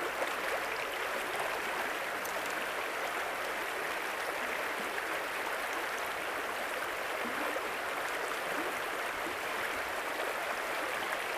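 Steady rushing of a flowing river current.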